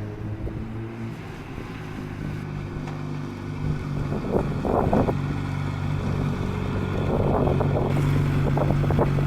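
Motorcycle engine running at a steady low pitch, slowly growing louder, with some wind on the microphone.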